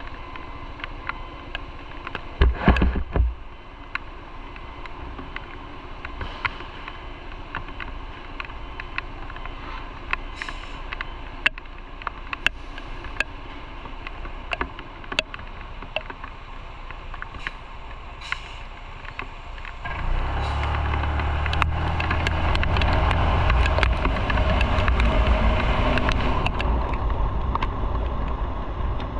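Motorcycle riding noise: the engine and road noise run steadily with scattered small clicks, and there is a brief loud thump about three seconds in. Around two-thirds of the way through, a much louder low rumble of engine and wind on the microphone sets in and continues.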